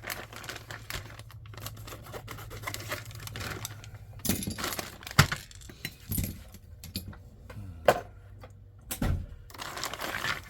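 An RC kit's plastic parts bag being opened and handled: crinkling plastic with small hard parts rattling and clicking against each other, and a few sharper clicks.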